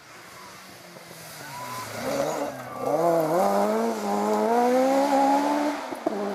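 Rally car approaching at speed on a forest stage, its engine revving hard and getting much louder from about two seconds in. Near three seconds the pitch drops briefly as it changes gear, then climbs steadily until a sudden lift off the throttle near the end.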